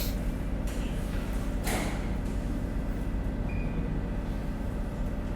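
Steady low rumble of a train running, heard from inside the car, with a couple of short hisses near the start.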